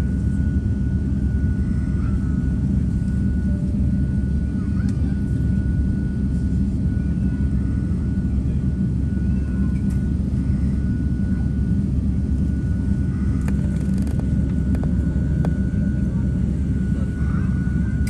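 Jet airliner engines running with a steady low rumble and a thin, constant high whine.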